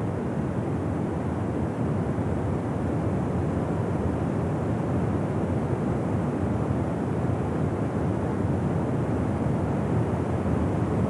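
Waterfall: a steady rush of falling water, a deep even noise with no breaks.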